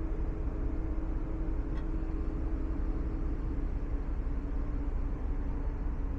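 Steady low rumble and hum of a ferry's engines while underway.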